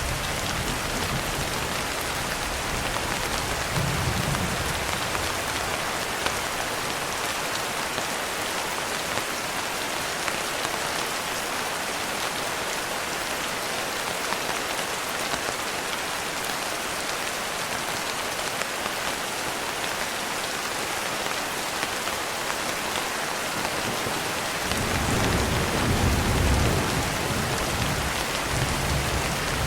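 Steady heavy rain falling on a surface, with low rolls of distant thunder near the start and again near the end.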